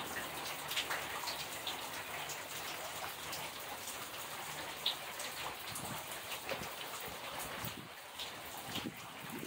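Steady rain falling onto a flooded yard and standing water, with scattered sharp drops close by.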